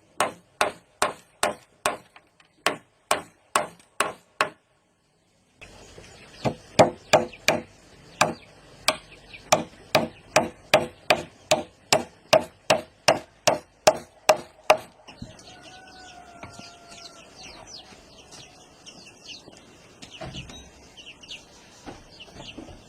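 Hand tool striking wood in a steady rhythm, about two to three blows a second. The blows break off briefly and then resume. They stop about fifteen seconds in, leaving quieter background sound.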